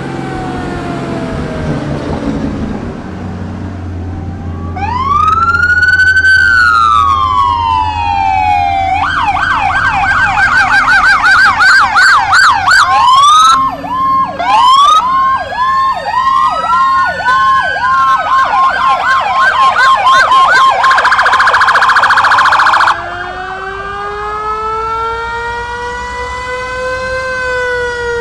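Fire engine sirens sounding in a parade. A loud electronic siren starts about five seconds in with a rising and falling wail, switches to a fast yelp and then a still faster warble, and cuts off abruptly near the end. Slower overlapping wails from other sirens go on after it.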